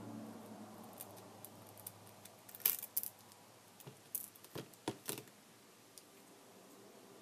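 A cluster of small, sharp clicks and taps, about a dozen between two and a half and five seconds in, over a faint low hum: small repair tools and tablet parts being handled during a screen repair.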